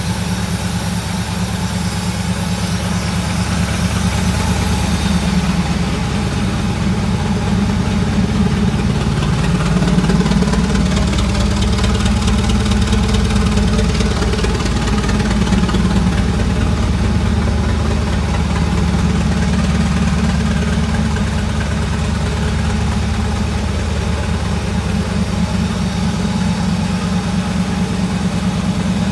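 Mercedes 6.9's 6.9-litre V8 idling while still cold, really loud because its muffler has been cut off. The pitch rises and falls slightly for a few seconds near the middle.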